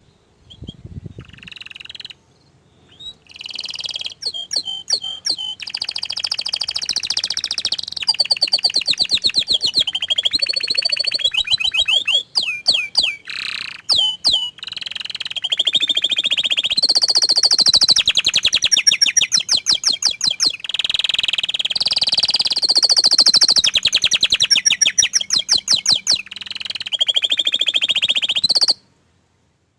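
Orange frost canary singing a long, loud song of fast trills and rolls mixed with clearer whistled phrases. There is a short break about two seconds in, and the song stops abruptly near the end.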